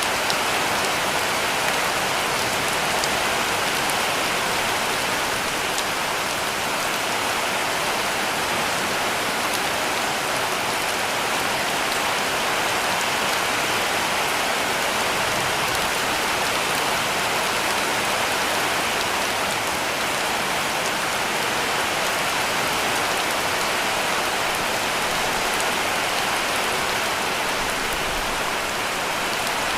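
Heavy rain falling steadily on a cabin roof, an even dense hiss of drops.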